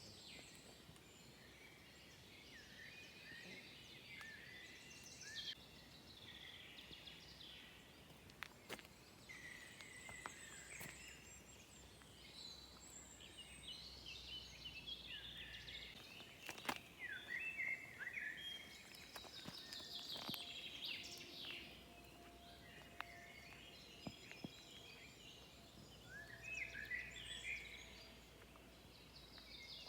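Several songbirds singing faintly, with overlapping chirps and warbles throughout, and a few sharp clicks.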